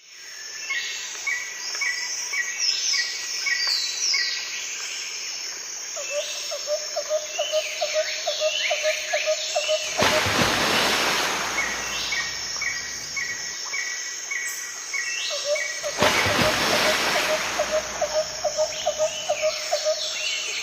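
Outdoor ambience of birds chirping and calling, with a row of short repeated high notes and a rapid pulsing trill that comes twice. A brief rush of noise breaks in twice, about ten and sixteen seconds in.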